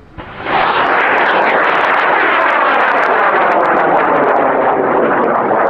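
High-power rocket motor firing at liftoff: a loud, crackling roar that starts about half a second in, holds steady, and begins to fade near the end as the rocket climbs away.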